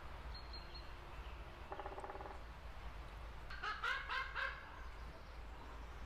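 Birds calling over a steady low hum: a short rattling call about two seconds in, then a louder run of several harsh calls in quick succession around four seconds in, with faint high chirps near the start.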